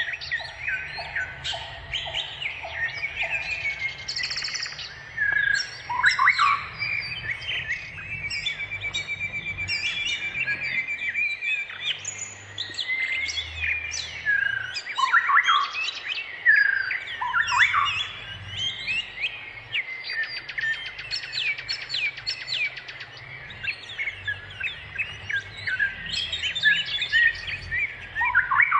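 A chorus of many small birds chirping and twittering at once, with short calls, fast trills and quick sliding notes overlapping without a break, and a few louder calls standing out.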